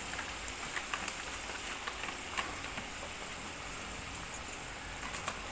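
Spice stuffing for bharwa karela frying in oil in a kadhai as it is roasted: a steady sizzle with scattered small crackles.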